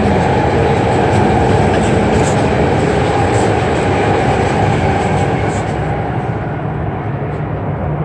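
A train passing along the tracks: a steady rumbling rush of wheels and cars that eases slightly near the end.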